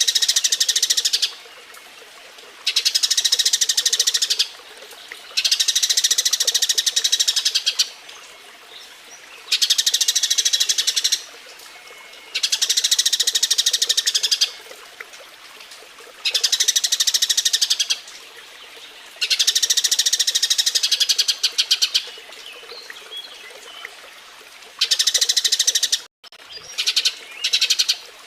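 Eurasian tree sparrows chirping in fast, dense bursts of about two seconds each, repeated about seven times with short pauses between: the excited chatter of sparrows mating. Near the end the sound cuts out for a moment, then comes back in a few short bursts.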